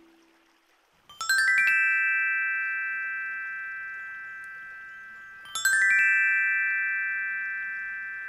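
Tuned metal chime bars struck in a quick rising run of about six notes, then left to ring and fade slowly; the same run is played again about four seconds later.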